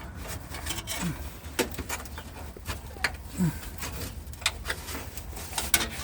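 Scattered clicks and light knocks from hand work on wire and metal fittings under the car. Twice, a short low hum falls in pitch.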